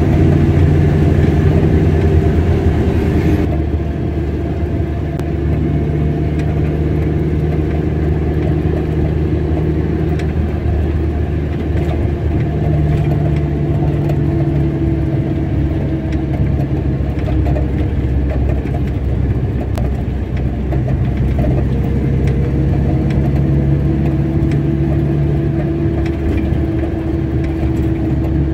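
A car driving along a road: steady engine and tyre hum whose pitch drifts gently up and down with speed. A hiss heard at the start stops about three and a half seconds in.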